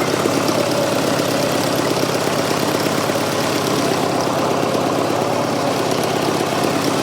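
Fordson Super Major's 3.6 L four-cylinder diesel engine idling steadily, turned right down to low idle. The freshly revived engine is running with heavy blow-by.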